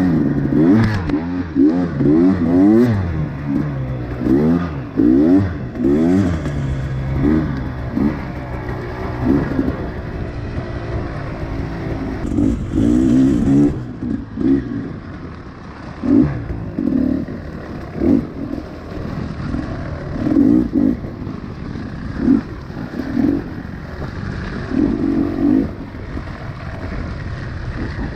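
Small single-cylinder four-stroke engine of a Honda CRF110F pit bike, revving up and falling back over and over in short throttle bursts as it is ridden over rough trail.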